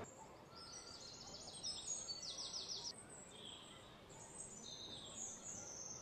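Small birds calling in rainforest: high chirps, with two quick runs of rapid notes in the first three seconds and softer calls after, over faint outdoor background noise.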